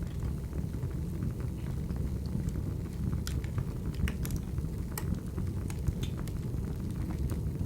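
Burning firewood: a steady low rumble of flames with scattered sharp crackles and pops, a few louder ones near the middle.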